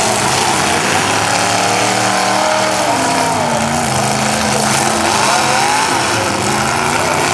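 Several demolition derby cars' engines revving and running together, their pitches rising and falling as they drive.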